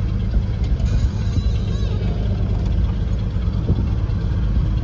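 1986 Ford F-150's engine idling steadily after a cold start, heard from inside the cab.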